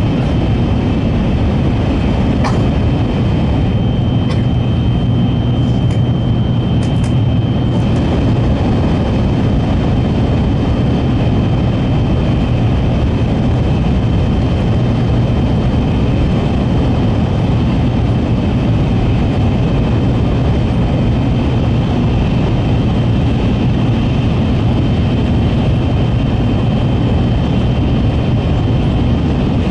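N700-series Shinkansen running at speed, heard from inside the passenger car: a steady low rumble with a thin high whine over it. A few light clicks come in the first eight seconds.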